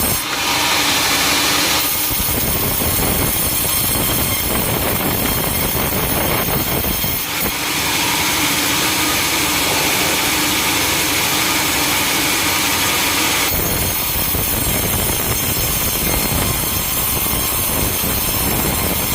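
Sawmill saw running continuously and cutting timber, loud throughout. The cutting noise turns harsher and higher, over a steady hum, twice: briefly at the start and for about six seconds in the middle.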